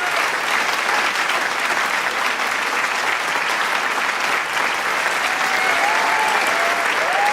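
Large crowd applauding steadily, a dense wash of clapping, with a few voices calling out and cheering near the end.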